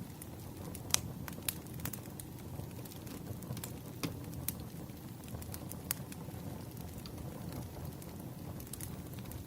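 Crackling wood fire: a steady low rush with scattered, irregular sharp pops, a loud one about a second in.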